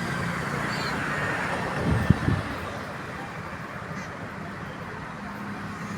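Steady hum of road traffic, with a brief bird chirp a little under a second in and a single thump about two seconds in.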